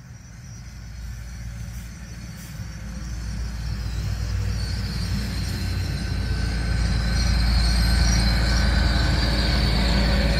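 GWR passenger multiple-unit train approaching and running past close by, its low rumble growing steadily louder over the first seven seconds or so, with a thin high whine on top from about halfway.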